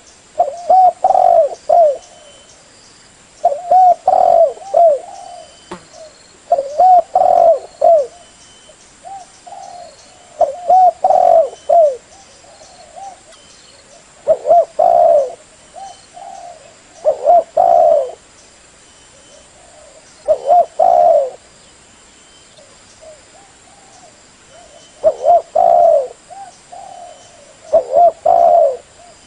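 Spotted dove cooing: loud phrases of several low coos repeating about every three seconds, with softer coos between them.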